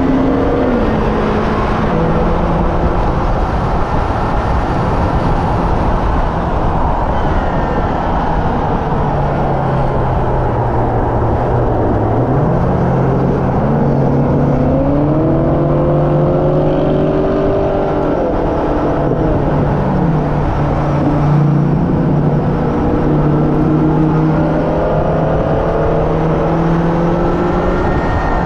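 Hyundai Elantra N's 2.0-litre turbocharged four-cylinder running hard at track speed over heavy wind and road noise. Its pitch holds, climbs under acceleration about twelve seconds in, falls off around twenty seconds, and climbs again near the end.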